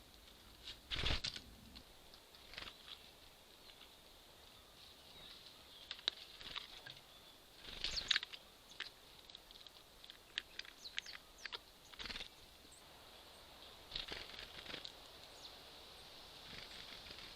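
Small birds at a squirrel feeder: several short wing flutters and knocks as they land and leave, the loudest about a second in and about eight seconds in, with scattered quick taps and clicks of pecking at the seeds, over a steady faint hiss.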